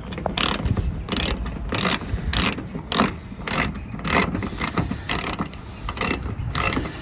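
Hand ratchet socket wrench being worked back and forth on a bolt, its pawl clicking in repeated short runs about twice a second.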